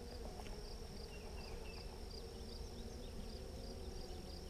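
Honeybees buzzing steadily around an opened hive, with a faint high chirp repeating about twice a second.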